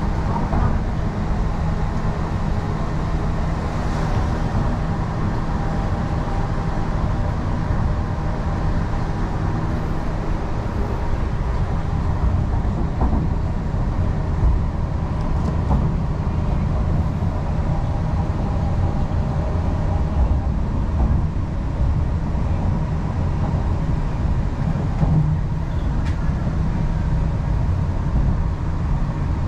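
MTR East Rail line R-Train electric multiple unit running along the line: a steady rumble of wheels on rail with a constant electric motor hum.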